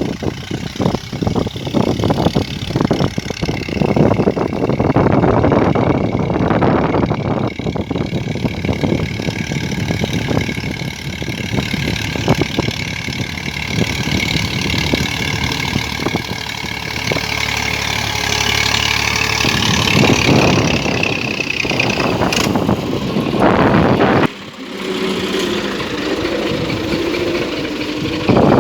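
Tractor engine running steadily as the tractor pulls a plough through a field. The sound drops sharply about 24 seconds in, then picks up again.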